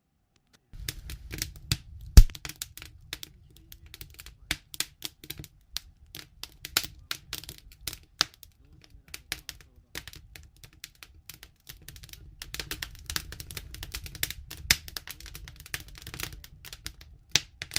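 Wood campfire crackling, with irregular sharp pops and one loud pop about two seconds in, over a low rumble.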